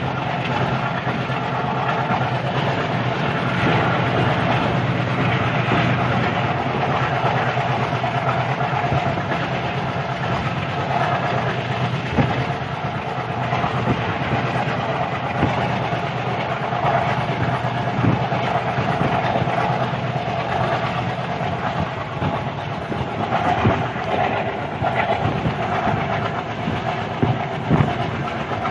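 Train running steadily, heard from inside the carriage at the window: a continuous noise with a low hum underneath and scattered sharp clicks and knocks.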